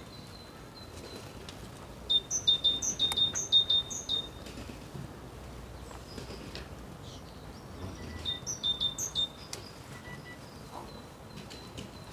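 A small songbird singing: a run of quick, repeated high chirping notes about two seconds in, then a shorter phrase about eight seconds in, over faint steady outdoor background noise.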